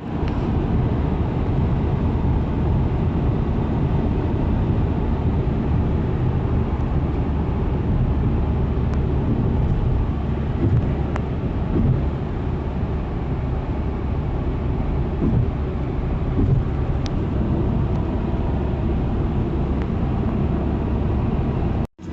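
Steady low rumble of a car driving along the road, engine and tyre noise without a break.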